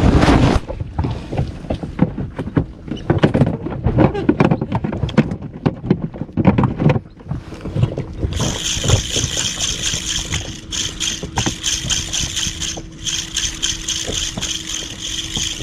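Water knocking and slapping against the hull of a small inflatable boat in a quick irregular series. About seven seconds in, a steady low hum begins, and a high whine joins it about a second later.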